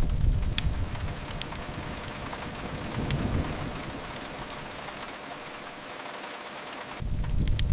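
Steady rain with sharp fireplace crackles now and then, over a low rumble that swells near the start, about three seconds in, and again near the end.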